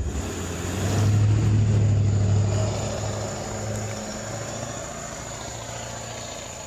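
A single knock, then a vehicle passing by on the road: a low engine sound that swells about a second in and fades away over the next few seconds.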